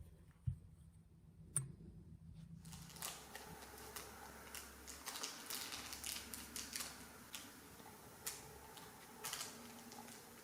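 Small metal carburetor parts and hand tools being handled: a dull knock and a sharp click early on, then a run of irregular light clicks, taps and scrapes over a faint hiss from about three seconds in.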